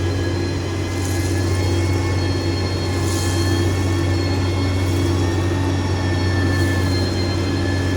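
Engine of a heavy construction machine running steadily, with a constant low hum and a steady high whine.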